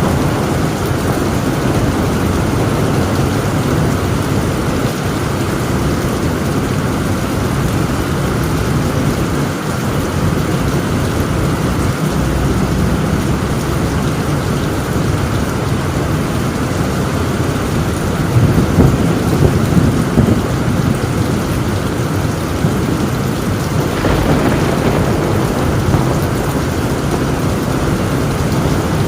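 Torrential rain drumming on a tin roof with low rolling thunder underneath; the thunder swells louder about two-thirds of the way through, and the rain's hiss grows brighter near the end.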